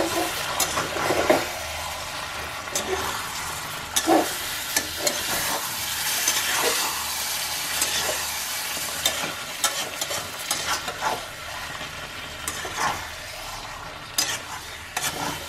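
Chicken pieces with onions and tomatoes sizzling as they fry in a wok over a medium flame, with a steady hiss. A slotted metal spatula stirs them, scraping and knocking against the pan at irregular moments.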